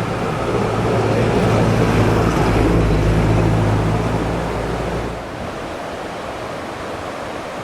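Fast mountain river rushing over rocks, a steady roar of whitewater. A steady low hum runs under it and stops about five seconds in.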